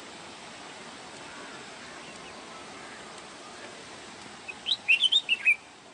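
A bulbul sings one short phrase of several quick whistled notes near the end, over a steady background hiss.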